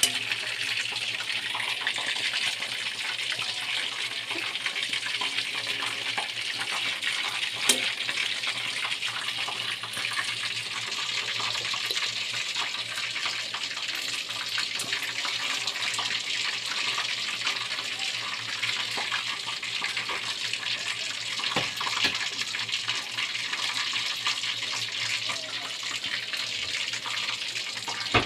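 Steady sizzling hiss of chicken pieces frying in hot oil in a wok, with a few brief clicks.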